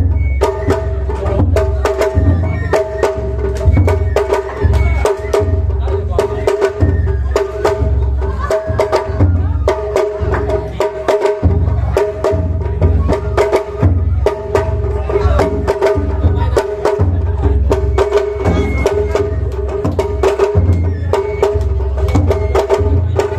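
Japanese festival music (matsuri bayashi): drums and wooden percussion struck in a quick, busy rhythm under a sustained melody line.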